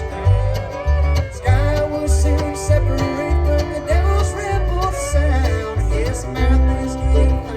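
Bluegrass band playing live: guitar and banjo over a steady bass beat, about two low notes a second, with a melody line that slides between notes.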